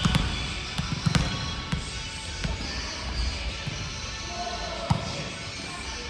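A volleyball being struck and bouncing on a gym floor: a string of sharp thuds, the strongest about a second in and another near five seconds.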